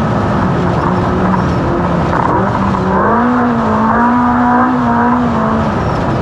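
Off-road race car engine pulling hard under a dense rumble of drivetrain and terrain noise, its revs dipping, climbing about halfway through and dropping again near the end.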